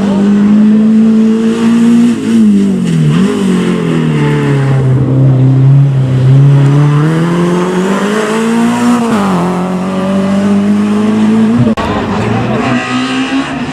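Rally car engine running at high revs on a special stage, its pitch dropping, then slowly climbing and falling back as the driver works the throttle. There is a sharp break about twelve seconds in.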